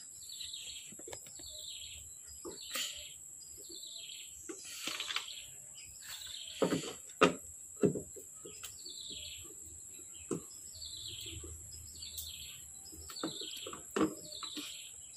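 A bird calling over and over in short falling chirps, about one a second. A few sharp clicks and knocks from a T-handle wrench being worked on the tail-light bolts stand out as the loudest sounds: a cluster about seven seconds in and another at about fourteen seconds.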